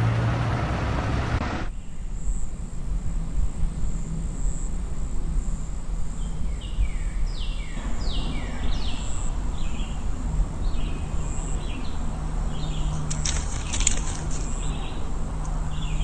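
Outdoor ambience: a steady low rumble with a bird calling again and again from about six seconds in, each call a short falling chirp.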